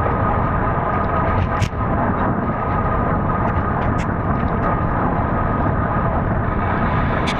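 Steady rushing wind and rolling noise from a moving ride, with a few sharp clicks about a second and a half in, at about four seconds, and near the end.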